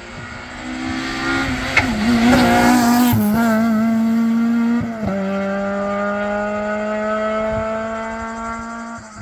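Rally car engine passing at race speed: it comes in loud and holds high revs, the pitch wavering, then a sharp upshift about five seconds in drops the pitch. It then climbs steadily as the car accelerates away and fades.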